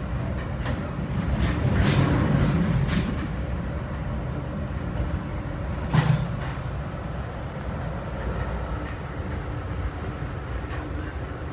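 Metra gallery coach running at track speed: a steady rumble of wheels on rail with scattered clicks, swelling about two seconds in, and one sharp knock about six seconds in, a slightly rough ride in an old coach.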